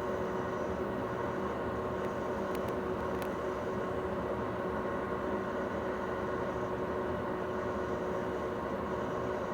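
Steady background hum with several held tones, like a running appliance or air conditioner, and a couple of faint clicks about two and a half and three seconds in.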